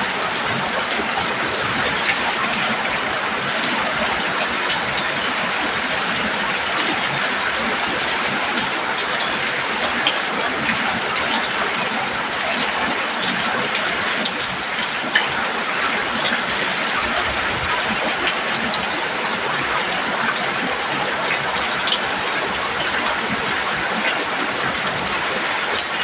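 Heavy rain falling steadily on a roof, a constant even hiss with a few sharper drop hits now and then.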